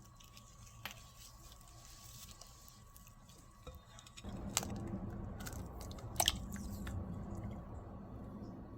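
Soft, squishy mixing of cookie dough in a bowl. It grows louder and denser about four seconds in, with a couple of sharp taps near the middle.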